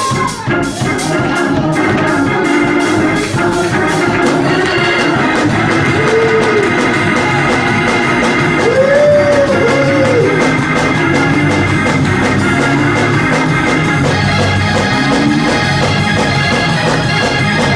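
Church praise music led by an organ with drums, playing a fast, steady beat at full volume.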